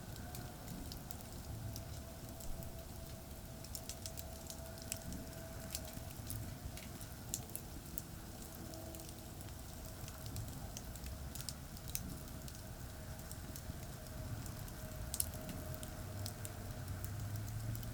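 Wood and charcoal campfire crackling, with scattered sharp pops, over a steady low rumble of traffic from a nearby expressway.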